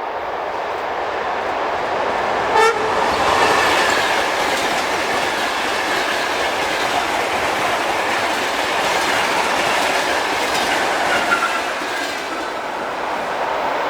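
A train passing at speed on the line, its steady running noise filling the whole stretch, with one short horn toot about two and a half seconds in.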